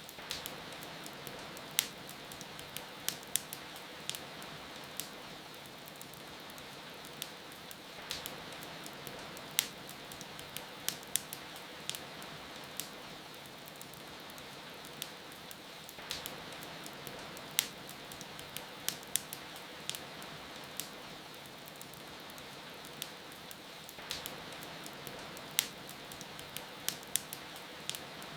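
Wood fire crackling with irregular sharp pops over a steady hiss of rain, the same stretch of sound repeating about every eight seconds as a loop.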